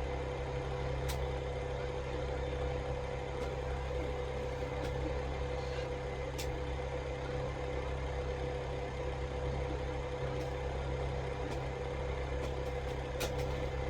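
Steady low machine hum with a constant tone, and a few faint clicks scattered through it.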